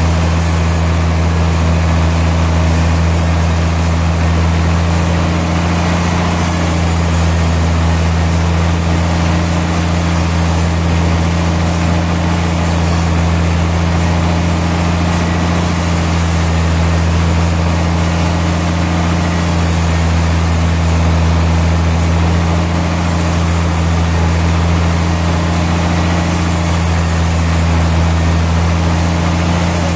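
Sawmill machinery running steadily: a constant low engine hum that holds the same pitch throughout, with no cutting surges or impacts.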